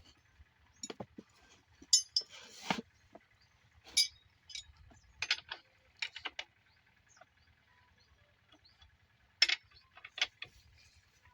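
Irregular metal clinks and knocks, about a dozen short sharp sounds spread unevenly, from parts and tools being handled on a pump set. The engine is not running.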